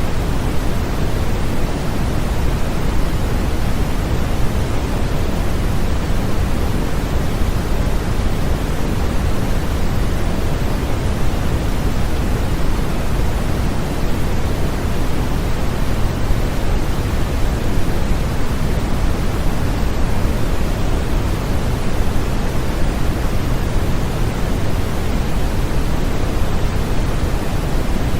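Steady synthetic noise for infant sleep: an even, unbroken hiss, heavier in the low end than in the highs, with no changes.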